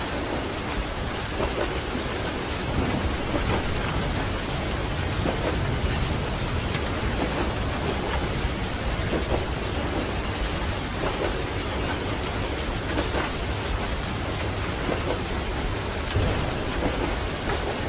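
Steady rain on a train carriage, with the low, continuous rumble of the moving train underneath.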